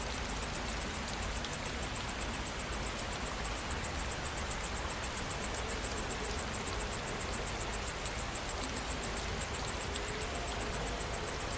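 Steady rain falling, with an insect chirping high-pitched in a rapid, even pulse.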